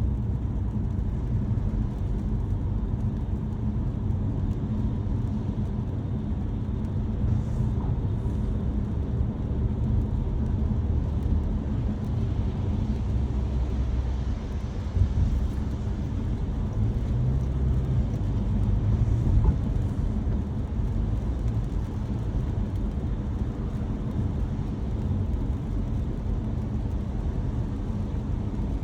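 A car being driven: a steady low rumble of engine and tyres on a wet road, with no big changes.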